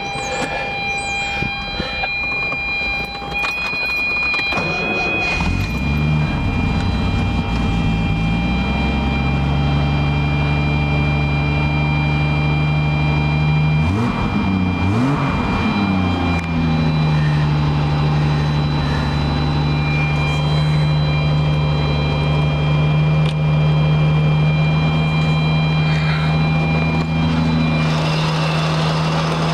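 1974 Triumph TR6's straight-six engine starting from cold: it catches about six seconds in and runs up before settling. About halfway through it is revved twice, up and back down, then it idles steadily.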